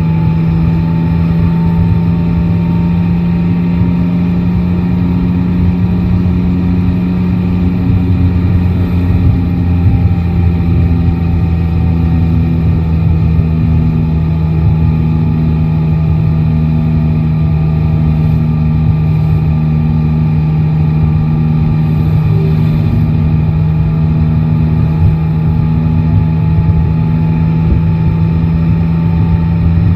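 Yamaha Tracer 9 GT's three-cylinder engine running steadily under way, with road noise and no sharp revs or shifts.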